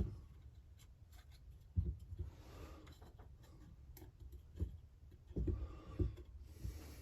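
Light handling sounds of chainsaw crankcase parts and the crankcase gasket being fitted: soft rustling with a few dull knocks of the case on the bench, the loudest about two seconds in and a cluster near the end.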